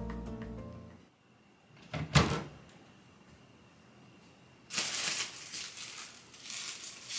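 Background music fades out, then a short household clatter or knock about two seconds in. A hissing noise starts near five seconds in and carries on to the end.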